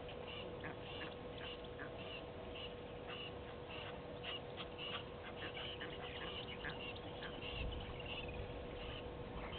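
Birds calling with short, high notes repeated about twice a second, over a faint steady hum.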